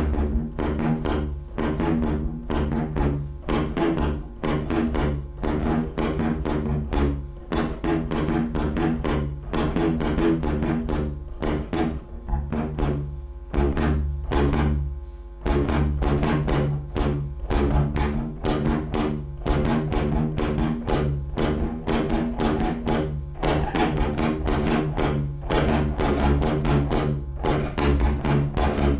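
Industrial noise music on electric guitar: a steady low drone held on a few fixed pitches, chopped by dense, fast, irregular percussive clicks. The drone thins out briefly about halfway through, then comes back.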